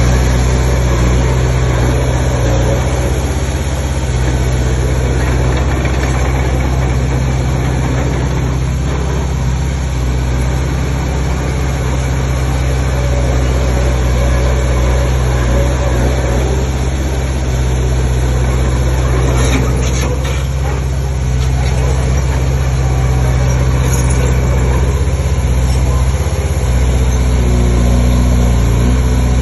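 Heavy diesel engine of earthmoving machinery (bulldozer or dump truck) running steadily. A few brief clicks come about twenty seconds in.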